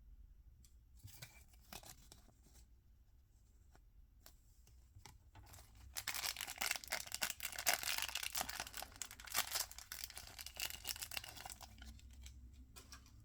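Toy packaging being torn open by hand: a few scattered crinkles and clicks, then about six seconds of continuous tearing and crinkling from around the middle, stopping near the end.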